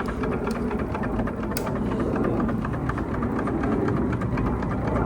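Wilesco D32 toy steam engine running on residual steam, with fast fine ticking and a deep low rumble underneath.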